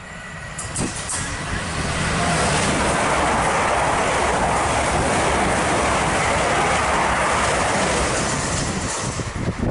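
South Western Railway passenger train running through the station at speed without stopping: wheel and air rush swelling over the first two seconds, holding loud and steady, then falling away near the end, with a few sharp clicks about a second in.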